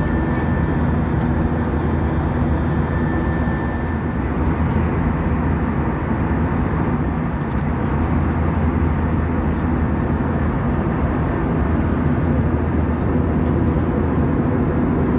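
Steady cabin noise of an Airbus A320-232 in cruise: the even drone of its IAE V2500 turbofan engines mixed with the rush of airflow past the fuselage. A faint high tone fades out about four seconds in.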